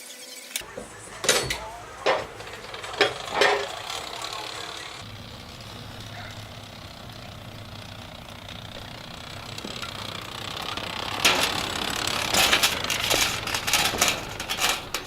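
Scattered sharp knocks and clanks of equipment being handled, with a low steady hum coming in about five seconds in and a quick run of clicks and rattles near the end.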